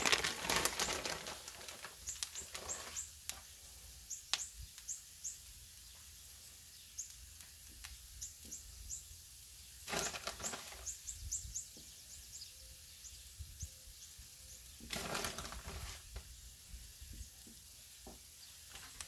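Small birds chirping, short high chirps in quick runs, over the faint steady sizzle of a hot griddle. A few brief bursts of noise break in near the start, about ten seconds in and about fifteen seconds in.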